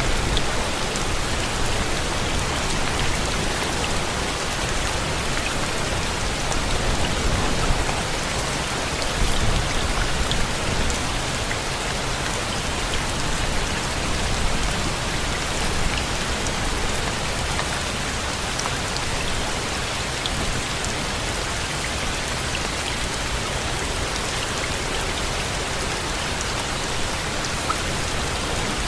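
Steady rain falling: an even hiss with scattered sharp drop ticks and a low rumble underneath.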